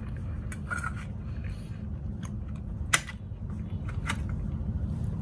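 A man chewing a mouthful of cheesecake: a few sharp mouth clicks and smacks, the loudest about three seconds in, over a steady low hum.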